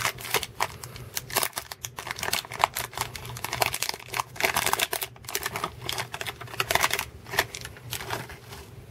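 A 1990 Leaf baseball card pack being torn open and the cards inside handled: a quick run of crinkling wrapper rustles and sharp card clicks that thins out near the end.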